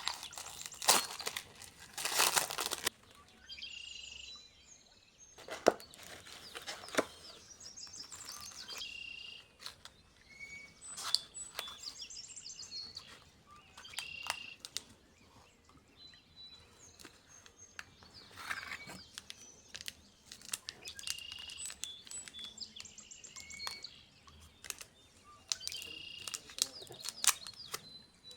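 Small birds chirping and calling over and over with short repeated notes and little pitch glides, alongside scattered sharp clicks and rustles that are loudest in the first few seconds.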